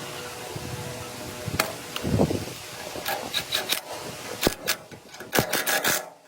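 Workshop tool work: a steady hum, then from about a second and a half in a run of sharp knocks and scraping or rubbing strokes, cutting off suddenly near the end.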